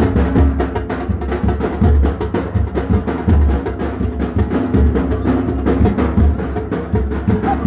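Drum music: a fast, steady rhythm of drum strokes over deep, booming low drum hits.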